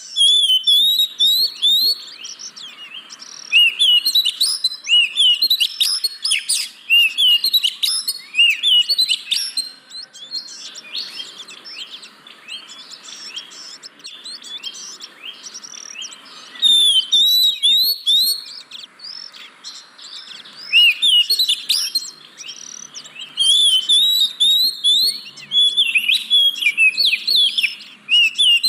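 Oriental magpie-robin (kacer) singing: a rapid, varied run of chirps and whistled notes in loud bursts of a few seconds, with brief quieter gaps between them.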